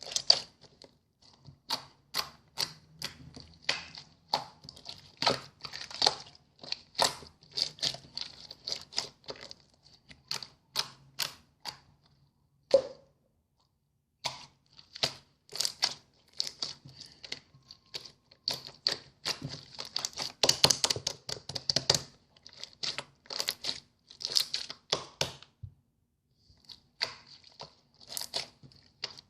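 Clear slime being squeezed and pressed by hand, giving a rapid, irregular run of sticky clicks and pops, with two short pauses.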